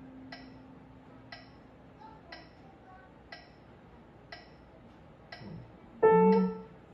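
Piano note dying away over a metronome ticking steadily at about one click a second, with another piano note struck about six seconds in.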